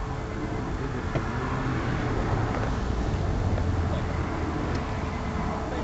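Steady roadside traffic noise, a low rumble of road vehicles.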